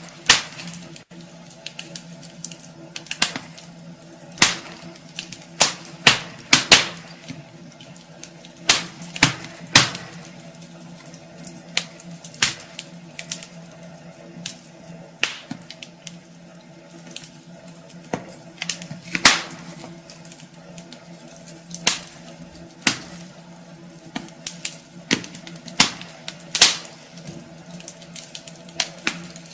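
Wood fire burning in a fireplace, crackling with irregular sharp pops and snaps over a soft hiss. A faint steady hum runs underneath.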